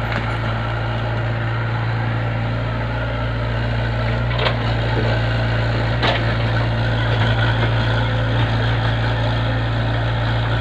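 Engine of heavy construction machinery running steadily with an even low hum, with two short knocks about four and a half and six seconds in.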